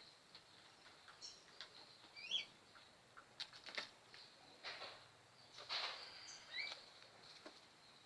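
Pigeons feeding: scattered faint taps and clicks of pecking at feed, a few short rustles, and a handful of short, high chirps.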